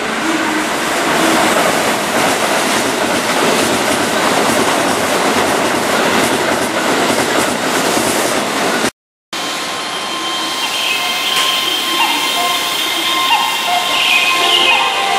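Keihan 3000-series electric commuter train passing close, its wheels running over the rails of a junction. After a short break the same train sounds at a platform as it pulls away, with steady high tones over the running noise.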